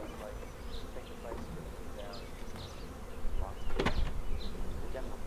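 Honeybees buzzing, with a few short knocks, the loudest a little under four seconds in.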